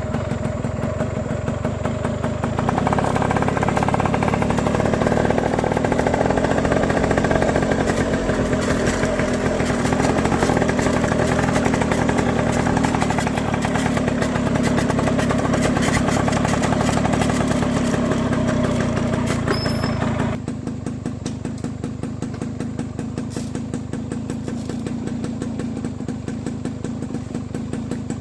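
A small engine running steadily with a fast, even pulse, dropping abruptly to a quieter, lower-pitched run about twenty seconds in.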